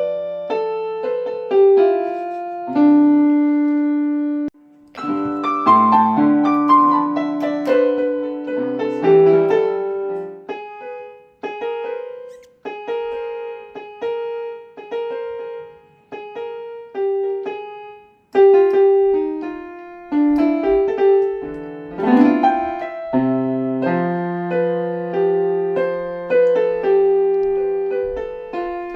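Piano or piano-voiced keyboard playing a melody of struck, decaying notes over lower held notes, with a brief pause about four and a half seconds in.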